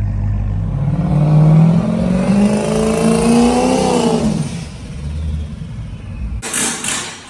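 Car engine idling, then revving up in one steady rise in pitch for about three seconds before dropping back and fading. A few sharp knocks follow near the end.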